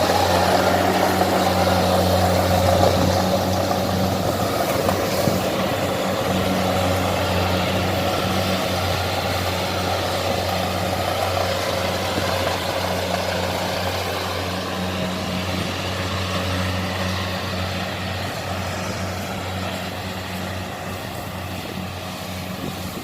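Diesel engine of a Kubota DC-70 combine harvester running at a steady speed, a deep even hum that grows gradually fainter.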